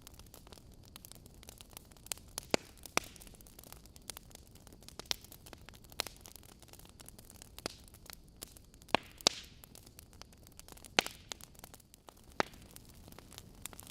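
Burning logs in a fireplace, crackling: irregular sharp pops and snaps over a soft steady hiss, with a brief hissing flare about nine seconds in.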